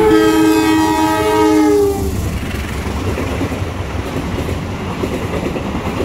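Diesel locomotive horn sounding one two-tone blast of about two seconds as a passenger train approaches, dipping slightly in pitch at the end. The train then passes at speed: a steady rumble of the coaches with the clickety-clack of wheels over the rail joints.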